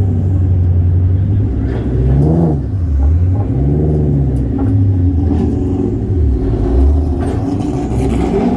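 Shelby GT350R's V8 running at low revs, with two short throttle blips that rise and fall in pitch about two and four seconds in.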